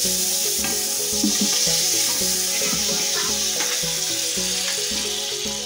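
Chicken pieces frying in hot sunflower oil, a loud steady sizzle that eases slightly toward the end.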